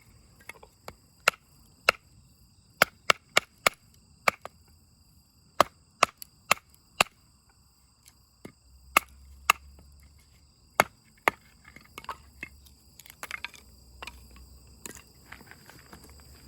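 Dry wood cracking and snapping in sharp, irregular cracks, one every fraction of a second to a second, loudest in the first half and smaller, busier pops later.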